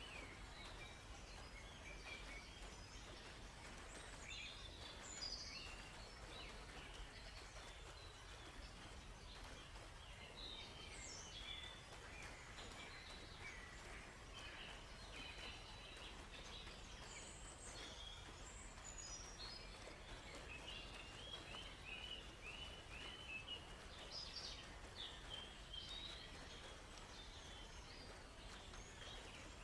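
Forest birds chirping and calling: many short, high chirps and quick glides from several birds, with a fast run of repeated notes a little past the middle, over a faint steady hiss and low hum.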